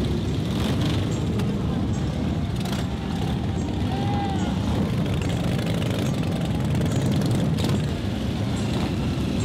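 Motorcycle engines running steadily, without a break.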